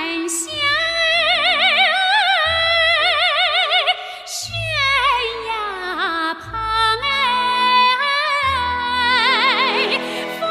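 A woman singing a Chinese folk-style song in a bel canto manner, holding long notes with a wide, even vibrato and sliding between phrases, over an accompaniment with low bass notes.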